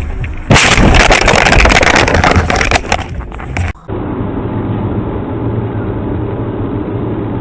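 Car recording: about half a second in, a sudden loud stretch of dense noise with many sharp knocks and rattles lasts roughly three seconds and stops abruptly. After a brief drop it gives way to steady, duller engine and road noise.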